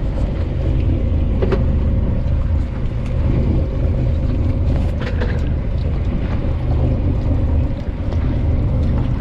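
Charter fishing boat's engine running steadily: a loud low drone with a steady higher hum over it, and a couple of faint clicks about one and a half and five seconds in.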